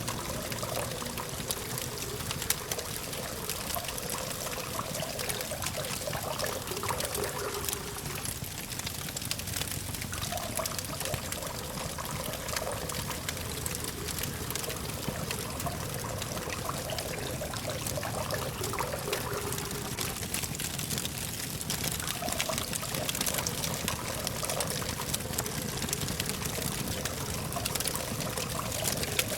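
Campfire crackling steadily, with many small pops and snaps, over a low, steady hum of distant traffic.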